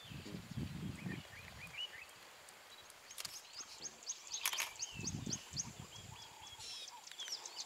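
Birds calling in the bush, with scattered high chirps and, midway, a quick run of about ten short rising notes. Two sharp clicks and a couple of brief low rumbles are heard alongside.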